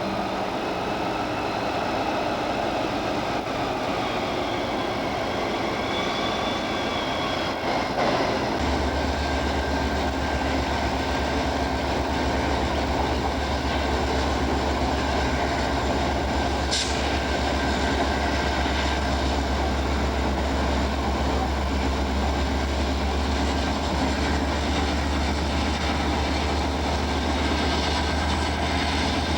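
Diesel-electric locomotive engine running steadily, with a deep low hum that sets in about eight seconds in and holds.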